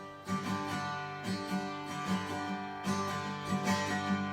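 Acoustic guitar strumming chords in a swung country-western down-down-up pattern, strokes falling at an even rhythm.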